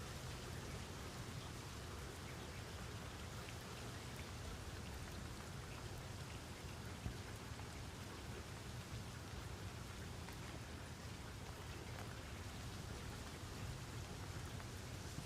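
Steady rain falling, a dense patter of drops on a surface with a low rumble underneath and a single small tick about seven seconds in.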